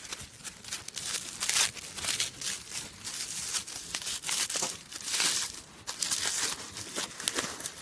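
Wood burning in a campfire stand, crackling and snapping irregularly.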